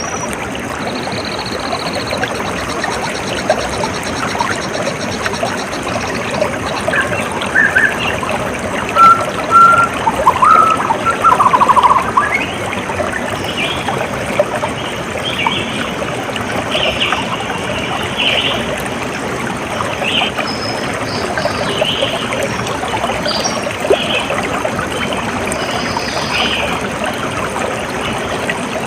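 Water trickling steadily, with birds calling over it: a high buzzy trill about a second in, a run of louder short calls between about 7 and 12 seconds in, and scattered chirps through the rest.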